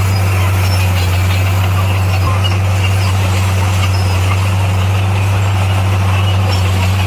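Heavy diesel engine of earthmoving equipment running at a steady speed: a constant low drone with no revving.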